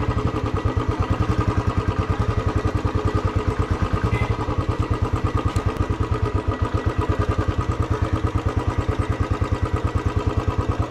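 Motorcycle engine running at a steady low speed, its exhaust giving an even, rapid pulsing beat that neither rises nor falls.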